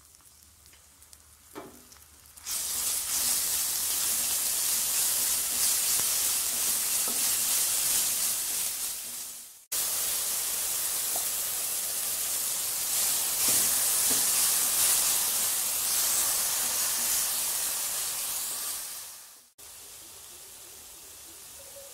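Loud sizzling of a mint-coriander green masala paste frying in hot oil in a nonstick kadai. It starts suddenly about two seconds in, after a quiet stretch with a few spoon clicks as ginger-garlic paste is stirred. The sizzle dies down near the end.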